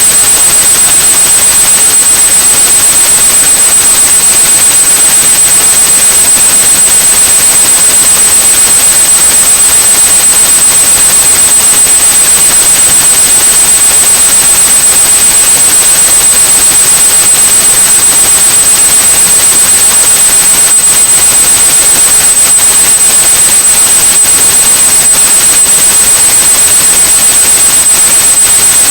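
Steady white noise with a continuous high-pitched pure tone of about 8100 Hz over it, a tinnitus-masking signal.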